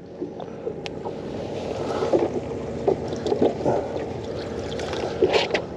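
Water lapping and gurgling against a small fishing boat's hull, with wind buffeting the microphone and a few light knocks.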